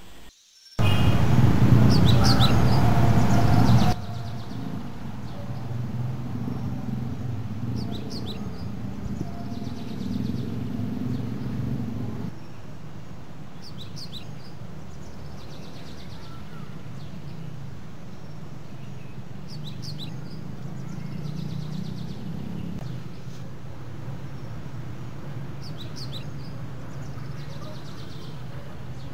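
Short bird chirps recurring at even intervals, about every six seconds, over a low steady hum. Near the start a much louder burst of noise lasts about three seconds and cuts off abruptly.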